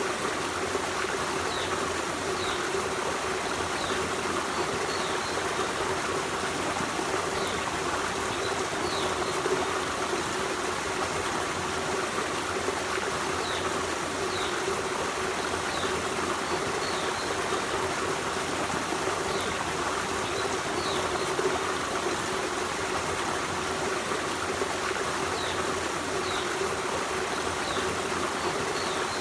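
Forest stream running steadily over rocks, with faint short high chirps now and then.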